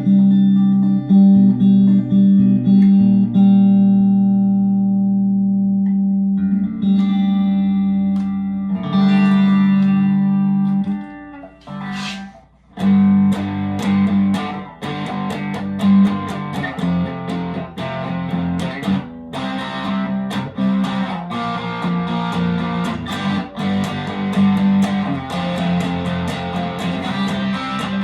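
Fender USA Stratocaster electric guitar being played just after a setup: long ringing notes for about the first eleven seconds, a brief drop-off about twelve seconds in, then busier picking with many quick notes.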